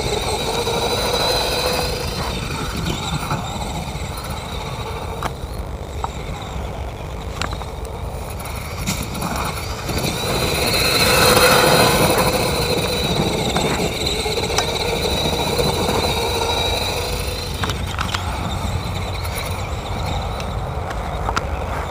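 Truck engine running with a steady low rumble and a whine that swells and grows loudest about halfway through, with scattered sharp knocks and clatters over it.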